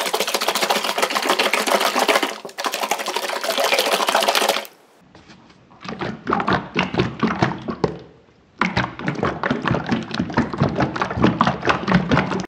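A capped plastic jar of water and slime powder being shaken hard and fast, the water sloshing to mix the powder in. It comes in three quick bouts, with two short breaks about five and eight seconds in.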